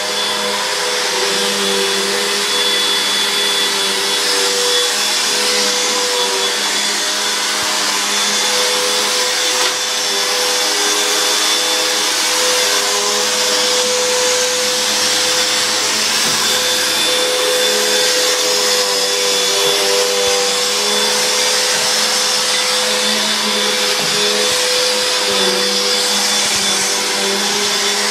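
Upright household vacuum cleaner running loud and steady, a high motor whine over rushing air.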